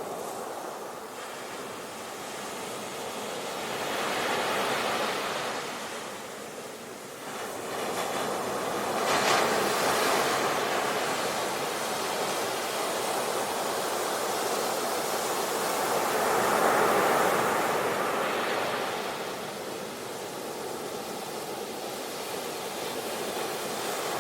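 Sea waves breaking on a shore and washing back, the surf swelling and ebbing in slow surges every several seconds, the sharpest about nine seconds in.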